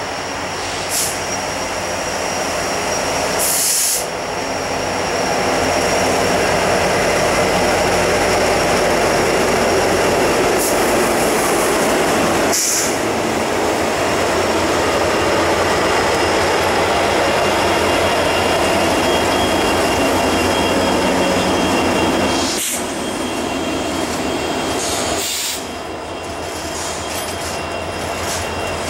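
A diesel freight train running past close by: its locomotives, including a GE Dash 8-40C, come by loud from about four seconds in, and the noise eases off after about twenty-two seconds as double-stack intermodal cars roll past with steady wheel noise and a faint high wheel squeal.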